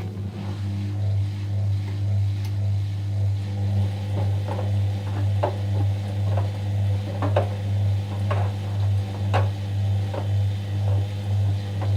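Whirlpool washing machine running on its 30° delicate cycle: a steady low hum that swells and fades about once a second, with light knocks about once a second from the turning drum.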